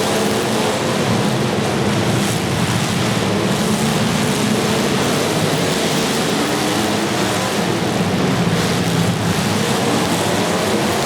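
Demolition derby cars' engines running and revving together, their pitch rising and falling, over a steady wash of noise.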